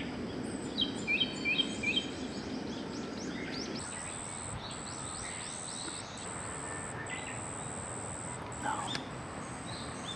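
Wild birds calling: quick repeated chirps at first, then a run of short falling notes, with a high thin steady whine coming in long pieces from about four seconds in.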